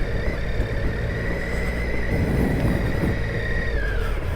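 Triumph Tiger 800 XCa's three-cylinder engine running, with a steady high whine over it that drops in pitch near the end.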